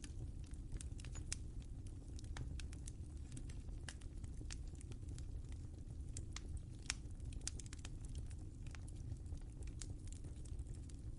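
Wood fire crackling in a fireplace: a steady low rumble of flame with irregular sharp pops and snaps scattered throughout.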